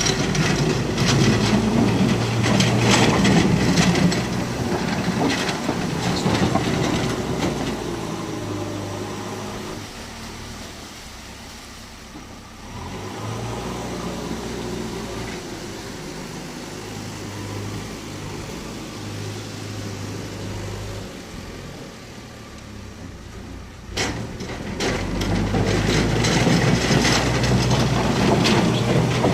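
A train running on the rails, wheels clattering over the track with a steady low engine hum; it fades to a quieter stretch midway and comes back loud suddenly near the end.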